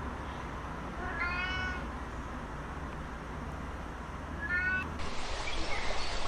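Domestic cat meowing twice, a longer meow about a second in and a short one near the end, over a steady low hum. Then the sound changes abruptly to a noisy background with faint high chirps.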